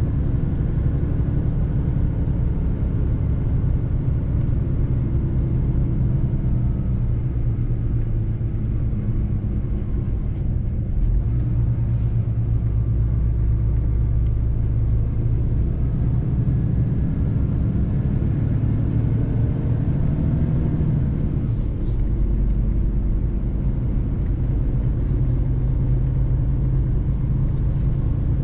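Mercedes-Benz truck driving on the road: a steady low rumble of engine and road noise. The engine note shifts about three-quarters of the way through.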